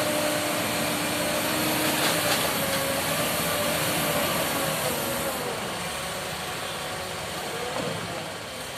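Heavy truck engine running steadily, with a faint wavering whine over the noise; it gradually gets quieter over the last few seconds.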